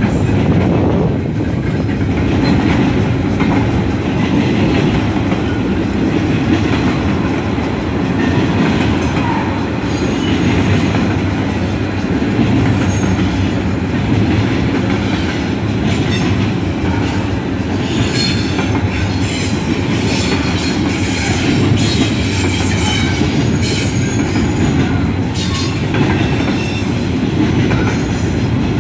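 Double-stack intermodal freight cars rolling past at close range: a steady, loud rumble of steel wheels on rail. Past the middle comes a run of sharp, high metallic clicks and squeaks from the wheels.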